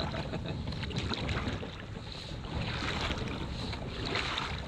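Kayak and paddle breaking up thin lake ice: a steady run of crackling and scraping that swells twice, with wind rumbling on the microphone.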